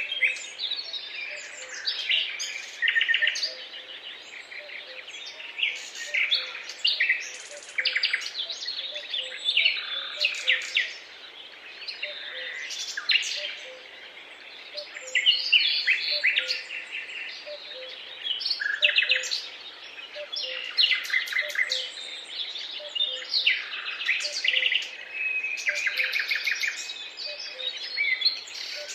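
A chorus of several songbirds singing and chirping together, with overlapping trills and quick runs of short notes.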